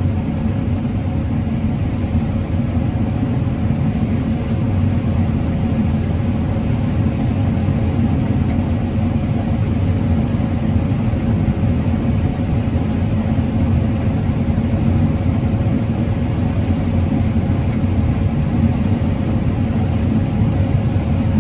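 Combine harvester running steadily while harvesting corn: a constant low engine and machinery drone with a faint steady hum above it.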